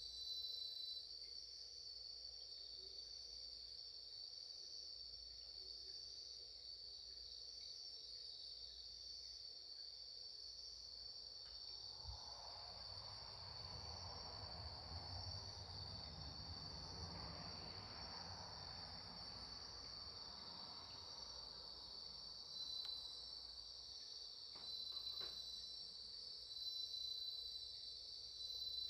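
Crickets chirping steadily in a dense, high-pitched chorus, with a few faint crackles from a campfire.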